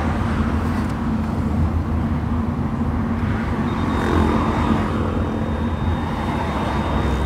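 Mitsubishi Lancer Evolution III's turbocharged 4G63 engine and tyre noise heard inside the cabin while cruising, a steady low drone.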